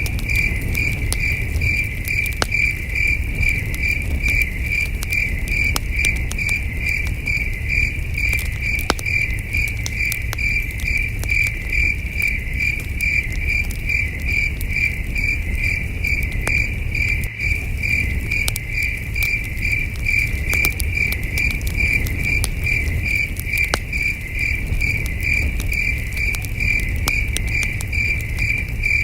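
Crickets chirping in a steady, evenly pulsed rhythm, with a campfire crackling in scattered sharp pops over a low, steady rumble.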